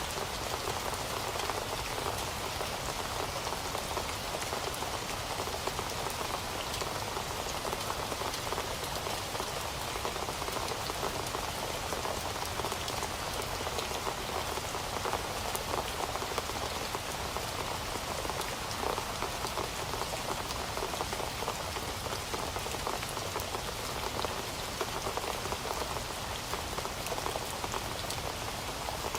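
Heavy rain falling steadily on a surface, a dense, even patter of countless drops.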